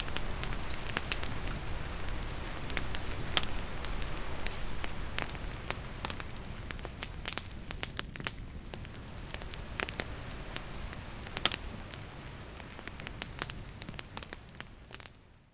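Wood campfire crackling with sharp, irregular pops over the steady hiss of rain falling. The whole gradually fades in its second half and dies away just before the end.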